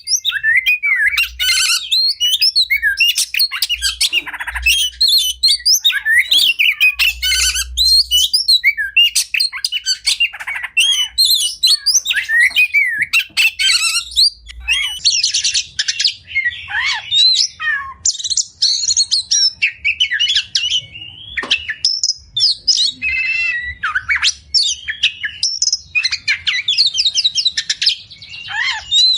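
Oriental magpie-robin (kacer) singing a long, rapid, varied song of gliding whistles, trills and harsh squawking notes without a pause, packed with mimicked phrases of other birds.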